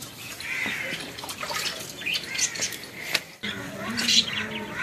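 Small birds chirping in short, high, repeated calls, with a brief break about three and a half seconds in.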